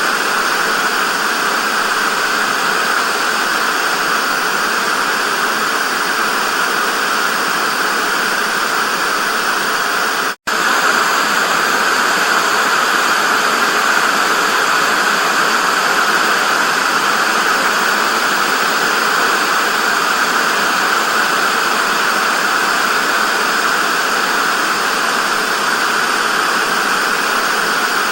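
Steady television static hiss, brightest in the upper middle range with little bass. It cuts out for a split second about ten seconds in, then resumes unchanged.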